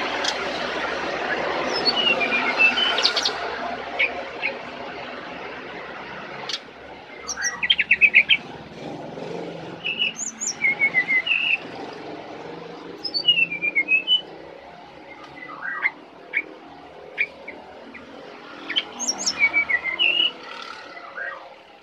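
Brown-chested jungle flycatcher singing short chirping phrases and quick trills, repeated every few seconds. A rushing background noise is loud at first and fades over the first few seconds.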